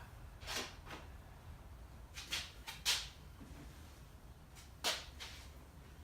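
A few scattered light clicks and knocks over a faint low hum, from working the engine hoist and handling the engine as it is lifted clear of the car.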